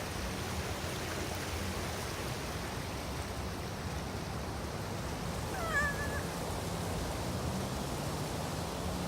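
Steady outdoor background rumble and hiss with a low hum, and one short high-pitched cry about six seconds in.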